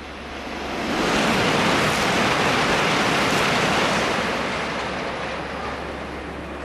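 Shinkansen train running past the platform at speed: a wide rush of air and wheel noise that swells within a second, holds loud for about three seconds, then fades away.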